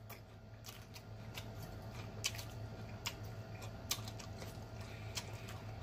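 Close-miked chewing of a mouthful of crab salad, with sharp, wet mouth clicks and smacks coming irregularly about once a second.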